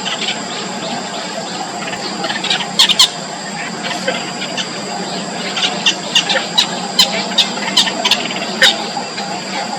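Yellow bittern chicks in the nest giving short, sharp squeaky calls in quick irregular runs, denser in the second half, typical of nestling begging.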